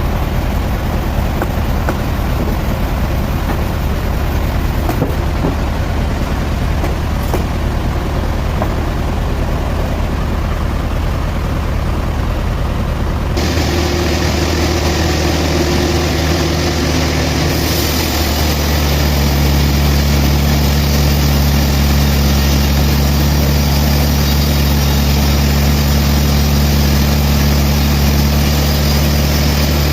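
Sawmill machinery running steadily with a strong low engine hum. About halfway through the sound changes suddenly: several steady higher tones and a hiss join in, and the hiss grows a few seconds later.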